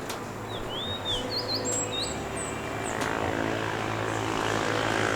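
A steady motor drone that grows gradually louder, with small birds chirping over it in short, quick rising and falling notes.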